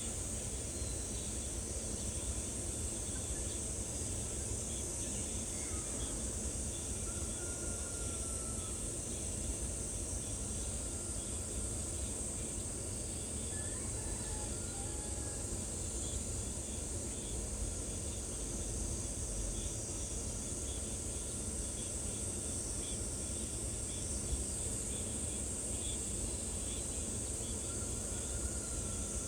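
Steady high-pitched insect chorus over a low rushing background, with a few faint short bird notes now and then.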